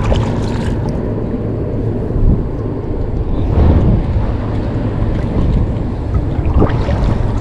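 Wind buffeting the microphone, a steady low rumble, over the rush of moving river water.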